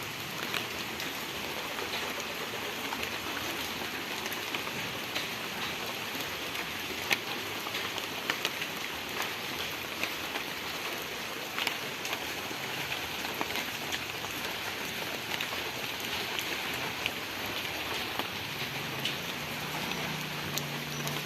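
Steady rainfall with a dense patter of individual raindrops ticking on surfaces, one sharper drop about a third of the way in. A faint low hum joins near the end.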